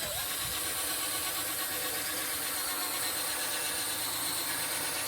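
Electric drill running steadily, spinning a P800 sanding disc against a wetted plastic headlight lens.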